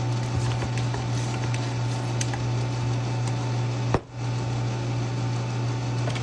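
A steady low hum, as from an appliance motor, with a few faint clicks; it drops out briefly about four seconds in and resumes.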